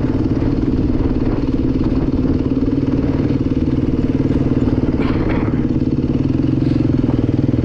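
Dirt bike engine running at steady, low revs.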